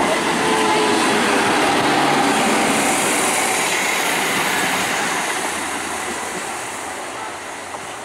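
Electric multiple unit (EMU) suburban train passing close by, its wheels running on the rails. The noise stays loud while the coaches go by, then fades steadily once the last coach has passed, about five seconds in.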